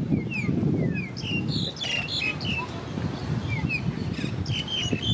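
Small birds chirping: many short, quick chirps that slide downward in pitch, some overlapping. Beneath them runs a low rumble, louder in the first second or so.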